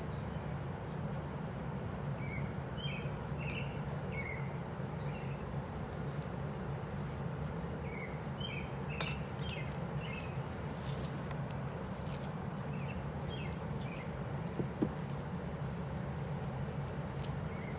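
Small birds chirping in several short runs of quick chirps, over a steady low outdoor drone.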